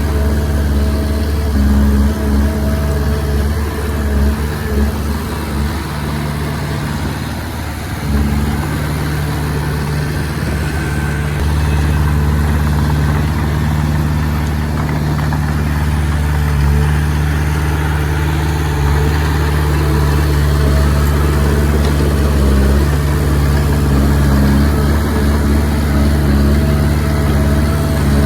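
Komatsu D20P bulldozer's diesel engine running steadily under work; its note and loudness sag for a few seconds and pick back up about eight seconds in.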